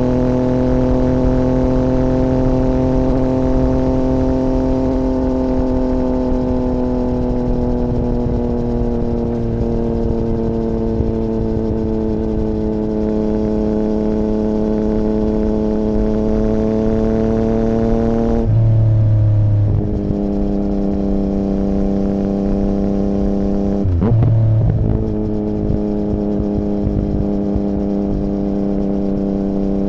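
2017 Yamaha MT-09's 847 cc inline-three engine running through an Akrapovic Racing Line carbon full exhaust with no dB killer, under way at a steady, slowly falling pitch. About two-thirds of the way through the note changes suddenly and settles lower, like an upshift, and a few seconds later it breaks briefly before going on steadily.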